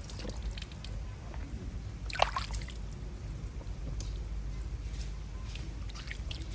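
Water trickling and splashing, with a brief louder sound about two seconds in.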